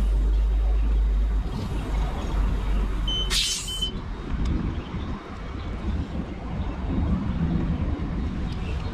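Motorcycle on the move: steady engine and road rumble with wind buffeting the microphone, heaviest in the first few seconds. A short hiss with a thin high tone cuts in about three seconds in.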